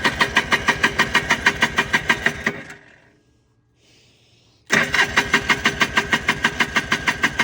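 Electric starter cranking the 1995 Polaris Trail Boss 250's two-stroke engine with the choke pulled, at about six beats a second, without it catching. The cranking dies away after about two and a half seconds and starts again about two seconds later: a crank-no-start that the owner puts down to fuel delivery.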